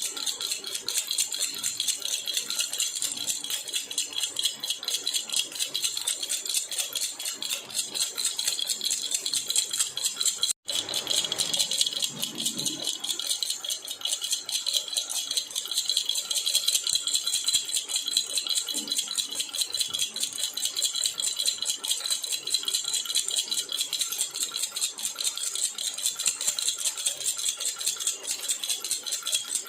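Jhunjhuna baby rattle shaken continuously, a fast, even jingling rattle. It breaks off for an instant about ten seconds in.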